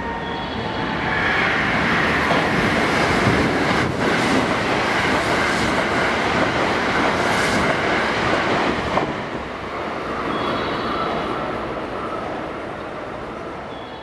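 JR West limited express electric train passing through a station at high speed without stopping: a rushing wheel-on-rail and air noise that builds over the first two seconds, holds, and fades after about nine seconds. A level-crossing warning bell rings at the start and again near the end.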